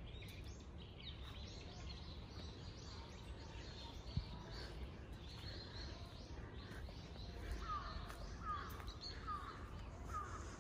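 Small birds chirping in the trees over a steady low outdoor rumble, with a run of four evenly spaced louder bird calls near the end. A single sharp tap sounds about four seconds in.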